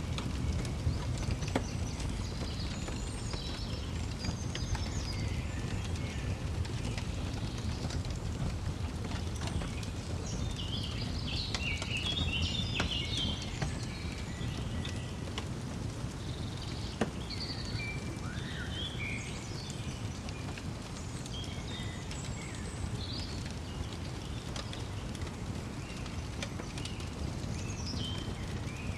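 Songbirds chirping and twittering in short phrases, busiest near the middle, over a steady low rumble of a wood fire with scattered sharp crackles and pops.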